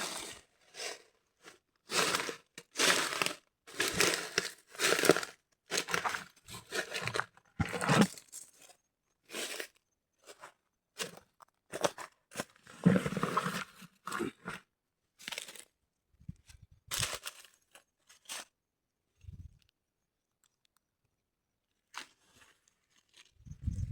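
Repeated crunching and tearing noises in short irregular bursts, one or two a second. They thin out and stop about 18 seconds in, and a low thud comes near the end.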